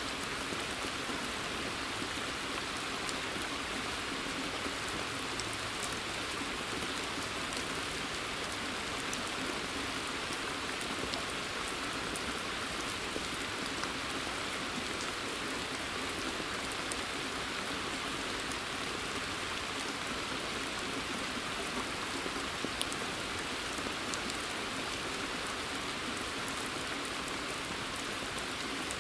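Steady rain falling on forest foliage and onto a pond's surface: an even hiss with scattered single drops ticking through it.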